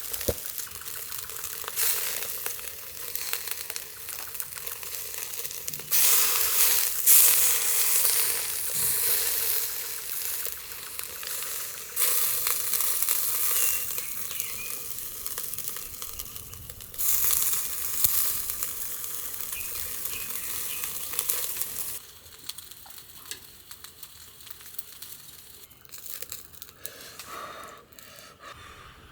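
Food sizzling in a hot pan, flaring up sharply about six, twelve and seventeen seconds in and easing off each time, then quieter with a few small clicks near the end.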